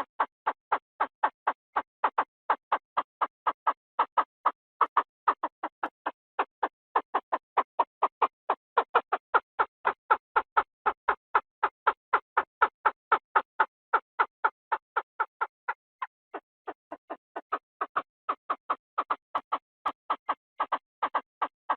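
Chinese francolin (Thai field quail) calls played back: a fast, even run of short clipped notes, about four a second, that softens briefly about two-thirds of the way through.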